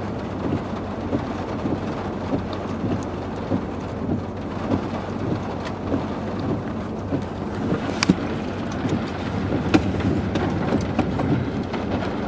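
Car driving slowly, with steady low road and engine rumble heard from inside the cabin. Scattered light ticks run through it, and there is one sharp click about eight seconds in.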